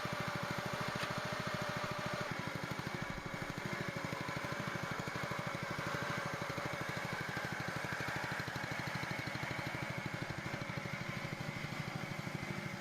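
Small single-cylinder engine of a homemade hydraulic log splitter's power unit, running steadily with an even, fast firing beat.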